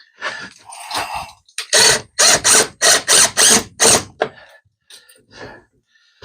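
Ratcheting hand tool driving a screw: a quick run of about seven loud clicking strokes in the middle, with fainter handling noise around them.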